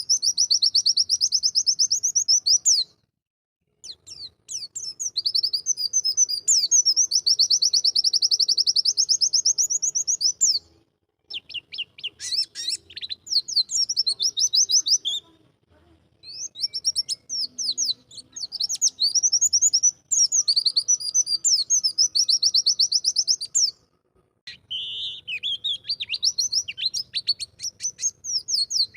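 Pleci (white-eye) song: long, rapid trills of high, repeated notes in several bouts, broken by short pauses.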